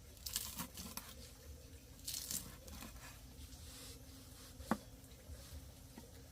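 Brief crinkling, rustling handling sounds in two short bursts, near the start and about two seconds in, then a single sharp click.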